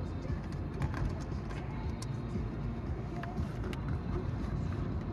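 Car interior sound while driving: tyres rumbling on the road and the engine humming steadily, with scattered sharp clicks.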